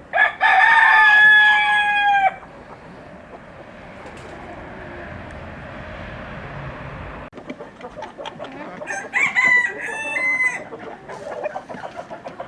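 A rooster crows loudly at the start, one long held call of about two seconds. Later come scattered short clucks from chickens and a second, shorter crowing call about nine seconds in.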